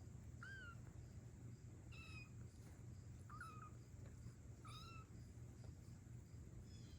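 Young kitten mewing: four faint, short, high-pitched mews about a second and a half apart.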